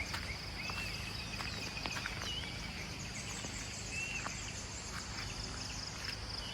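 Morning countryside chorus: insects keep up a steady high-pitched buzzing trill, while birds give short whistled calls a few times over a low background rumble.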